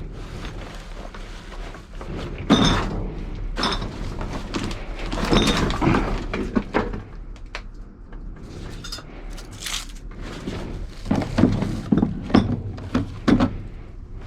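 Irregular knocks, thunks and clatter of hard objects being handled and moved about, over a steady low hum.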